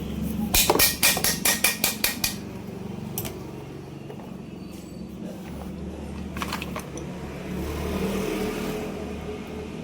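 A quick run of about ten hammer taps within two seconds, then two more taps later, during chainsaw block and piston work, over a steady low background hum.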